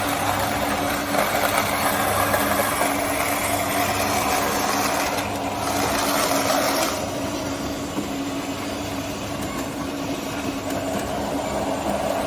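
Radio-controlled scale construction machines running: a steady motor-and-gear hum with a broad hiss on top, the hiss easing off about seven seconds in.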